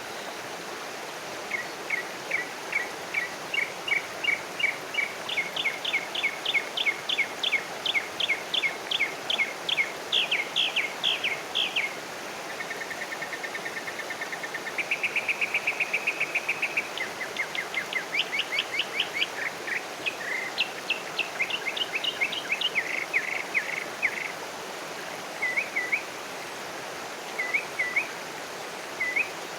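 Wild songbirds singing: long runs of quick repeated chirps, two or three a second, with two fast, even trills about halfway through and a few short, spaced phrases near the end, over a steady background hiss.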